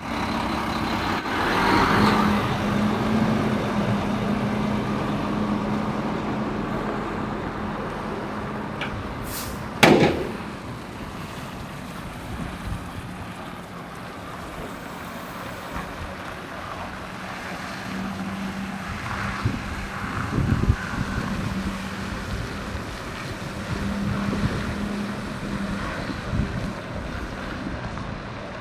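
Semi-truck engine running with a steady hum. About ten seconds in there is one short, loud sharp burst.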